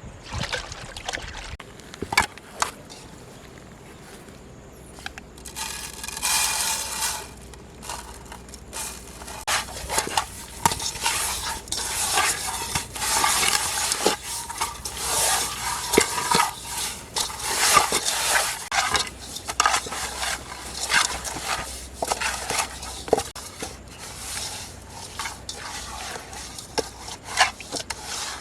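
Cooking sounds: food being stirred and handled in a pan, with uneven scraping noise and scattered clicks of the utensil against it.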